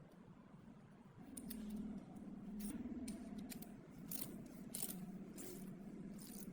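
Small hand-work noises on the workbench: a series of light, sharp clicks and taps. A low steady hum comes in about a second in.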